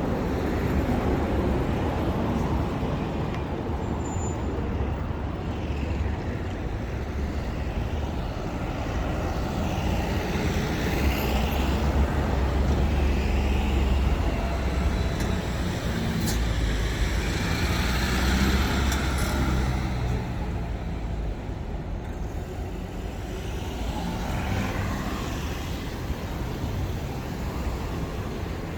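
City street traffic: a steady rumble of passing cars and trucks, swelling and easing as vehicles go by.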